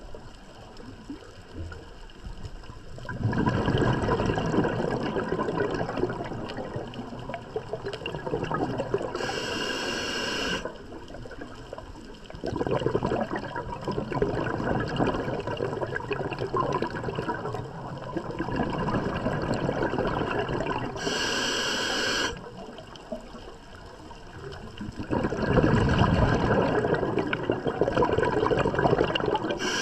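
Scuba diver breathing through a regulator underwater. Long bubbling exhales of several seconds alternate with short, higher hissing inhales, about three breaths in all.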